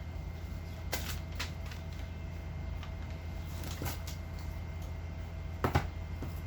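Boxes and packaging being handled during an unboxing: a few scattered clicks and knocks, the loudest a quick pair near the end, over a steady low hum.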